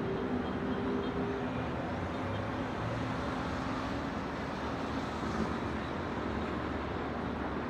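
Steady city road traffic as a continuous rumble and hiss. A vehicle engine's low drone fades out in the first second and a half.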